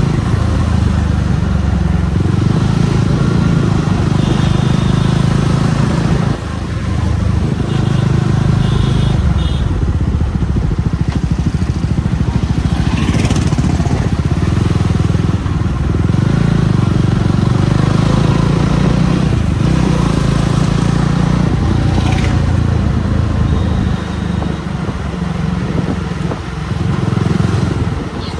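Jawa 42 Bobber's single-cylinder engine running steadily while riding, easing off briefly about six seconds in.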